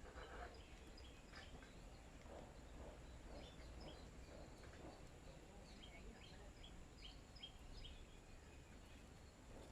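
Small birds chirping faintly with short high chirps, with a quicker run of about two chirps a second in the second half, over a low steady background noise.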